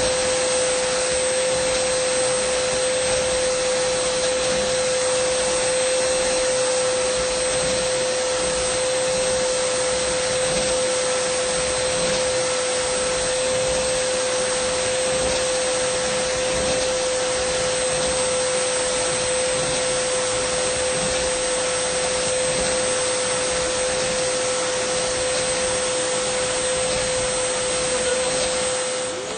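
Dyson vacuum cleaner running continuously: a steady whine over a hiss of rushing air. Right at the end the motor pitch dips briefly and climbs back.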